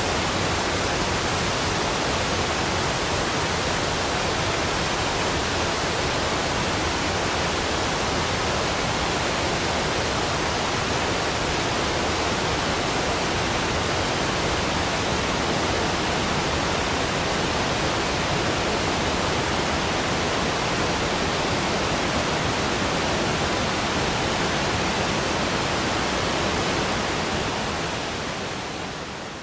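Waterfall rushing: a steady, even roar of falling water with no tones or rhythm, fading out near the end.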